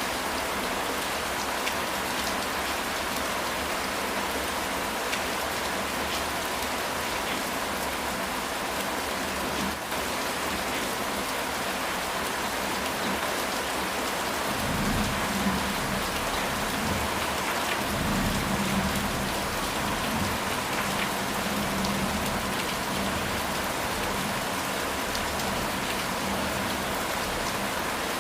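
Steady heavy rain falling on a house roof. About halfway through, a low rolling rumble of thunder swells and fades over several seconds.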